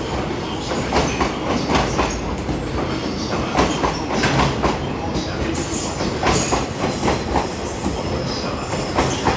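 Container freight train rolling past, its wheels clacking over rail joints in a repeated rhythm. A thin high wheel squeal comes in about halfway through.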